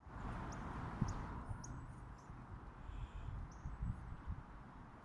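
Short high bird chirps, repeated roughly every half second, over irregular low rumbling of wind on the microphone.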